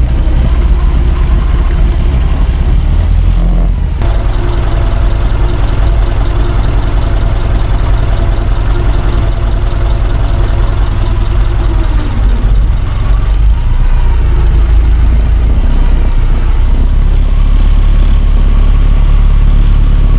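Ford Model T's four-cylinder engine running as the car is driven slowly over gravel, with a heavy low rumble close to the microphone. Its note falls about two-thirds of the way through as the car slows.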